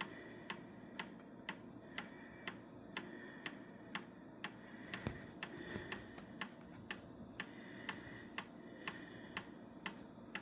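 Regular mechanical ticking, about two sharp ticks a second, steady throughout, over a low continuous background hum.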